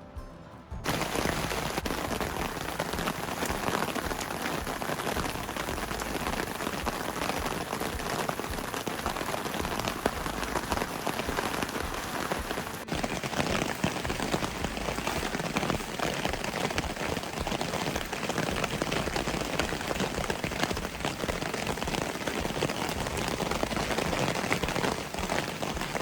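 Steady rain falling, a dense even patter that starts abruptly about a second in.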